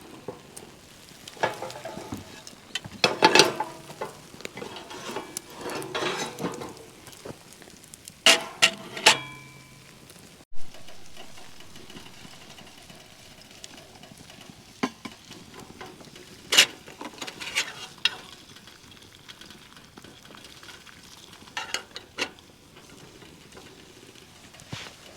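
Food sizzling in a frying pan, with bursts of clinks and scrapes of a utensil against the pan; one clink about nine seconds in rings briefly.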